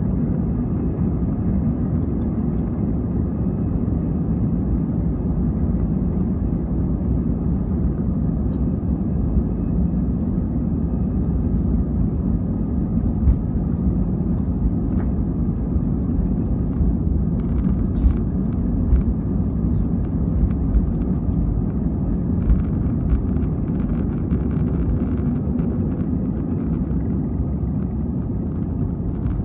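Steady low rumble of an Airbus A320's engines and airflow heard inside the passenger cabin, with a few faint clicks in the second half.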